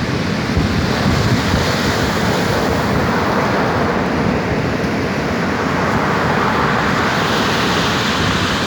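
Ocean waves breaking on the shore: a continuous wash of surf that swells slowly and eases again, with wind rumbling on the microphone.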